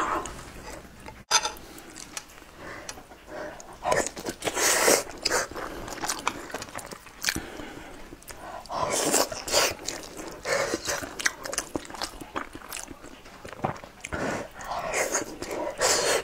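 Close-miked chewing and wet mouth smacking of a person eating soft sticky rice, with louder bouts about every five seconds as fresh mouthfuls go in.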